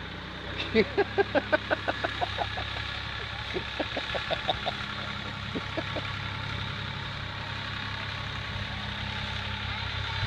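Farm tractor engine running steadily with a low drone. Over it, two quick runs of short, sharp pitched sounds, about six a second and louder than the engine, come near the start and again around four seconds in.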